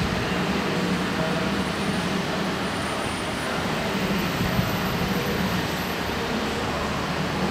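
Car engines idling and creeping forward as they stage at a drag-strip start line: a steady low rumble with no revving or launch.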